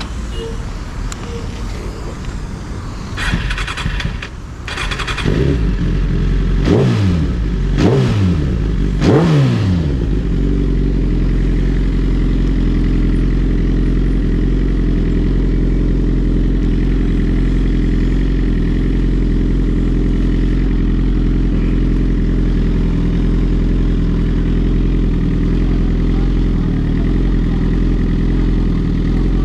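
Sport motorcycle engine accelerating hard, its pitch climbing and dropping back three times in quick succession as it shifts up through the gears, then settling into a steady drone at cruising speed.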